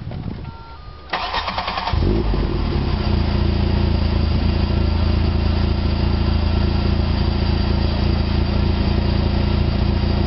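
1996 VW Jetta's 2.0L four-cylinder engine cranked by the starter for about a second, then catching about two seconds in and idling steadily. It breathes through a catless 2.25-inch exhaust with a Thrush glass pack and a Hooker Aero chamber muffler, giving a raspy note. A brief electronic beep is heard just before the cranking.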